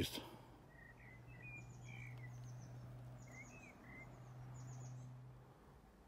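Faint songbirds chirping, with short scattered calls over a low steady hum that stops near the end.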